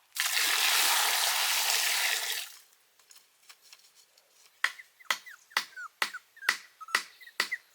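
A loud rush of noise for about two seconds that cuts off, then after a short gap a steady beat of sharp snaps about twice a second, with short chirping squeaks between them.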